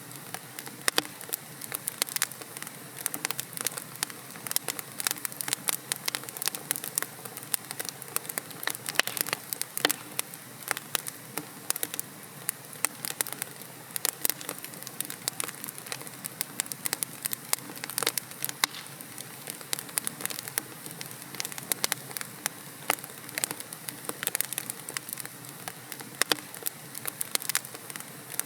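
Wood fire in a fireplace: logs burning with a steady low hiss and constant irregular crackles and pops.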